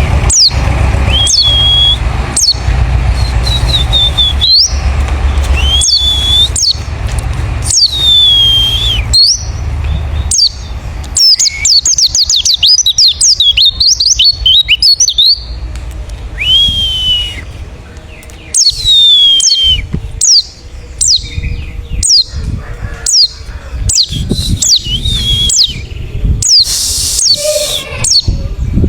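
Wild white-eye (pleci) song: repeated clear whistles that drop sharply and then level off, mixed with quick high chirps, with a fast run of chirps about halfway through. A low rumble lies under the first third.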